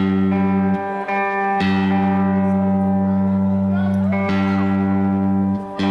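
Amplified electric string instrument plucked on one low note, struck about four times and left to ring steadily each time.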